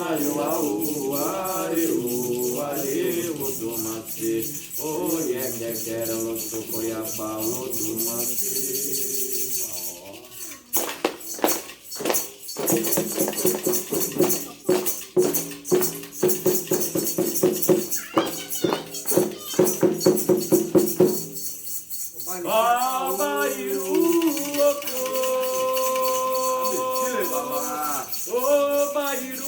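Voices singing a devotional chant over a continuously shaken rattle. About a third of the way in, sharp rhythmic beats join for some ten seconds, and the singing carries on after them.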